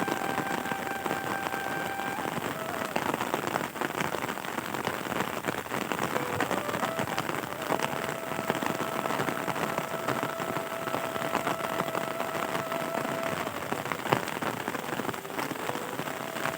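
Heavy rain falling hard, with hailstones striking the leaves and surfaces overhead as a dense crackle of small sharp hits. A faint steady tone sounds in the background now and then.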